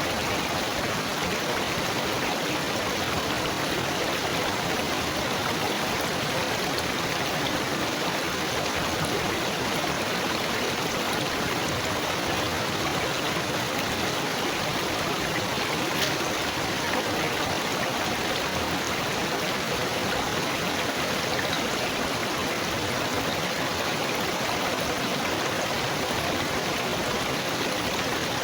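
Steady babbling and trickling of running water.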